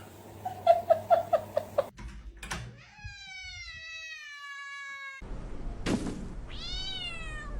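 Domestic cat calls across a few cuts. First comes a quick run of about seven short chirping calls. Then a long meow slides down in pitch, and near the end a shorter meow rises and falls.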